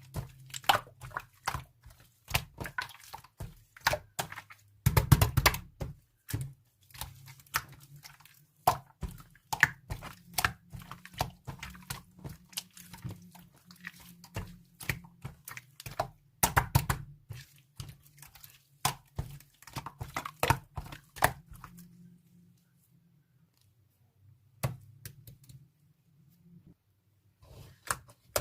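Slime being squished, poked and stretched by hand: a fast, irregular run of clicks, pops and crackles, over a steady low hum. The handling pauses briefly near the end, then starts again.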